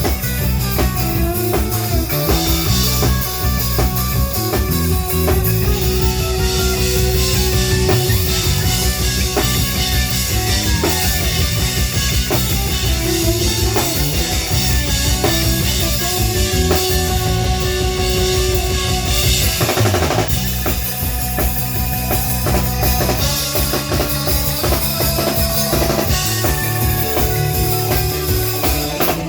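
Live band playing a song with a full drum kit (kick, snare, rimshots), bass and guitar, loud and steady.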